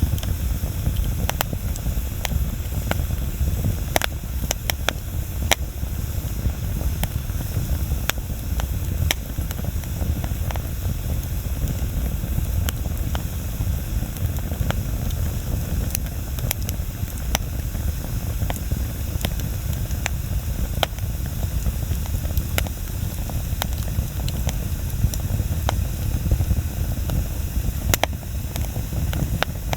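Wood bonfire burning: a steady low rush of flame with irregular sharp crackles and pops from the burning wood, several of them louder.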